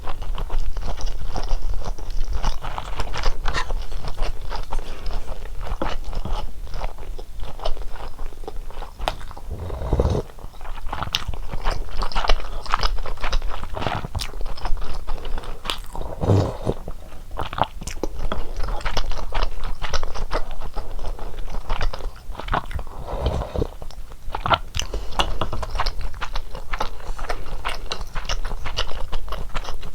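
Close-miked chewing and biting of fish cakes from a hot soup, a steady run of wet, clicking mouth sounds with a few deeper, fuller ones between.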